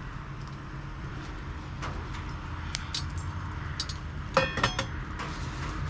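A few light metallic clinks of cooking utensils on a pan or dish over a steady low hum, with a short pitched squeak about four and a half seconds in.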